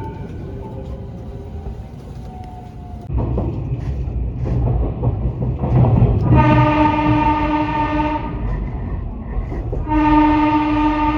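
Train running with a low rumble, then sounding its warning horn in two long blasts of about two seconds each, the second starting near the end.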